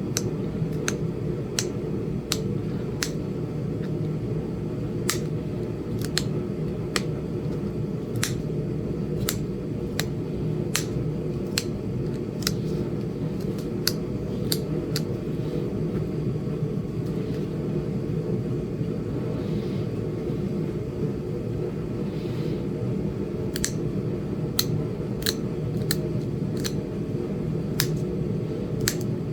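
Flint Ridge chert point being flaked: sharp stone-on-stone clicks as small flakes come off the edge, about one every second, with a pause of several seconds past the middle. A steady low rumble runs underneath.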